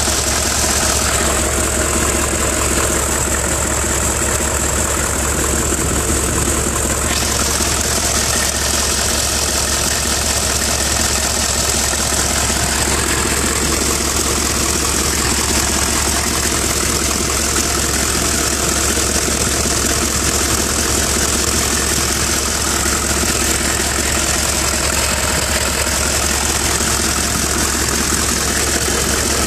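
1996 Chevrolet 3500's 6.5 L turbo-diesel V8 idling steadily.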